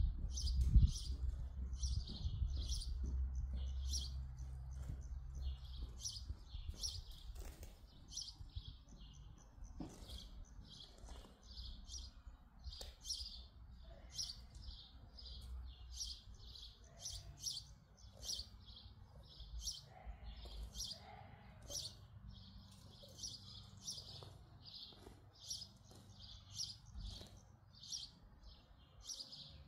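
Small birds chirping continuously, many short high chirps in quick succession. A low rumble is loudest at the start and fades away over the first few seconds.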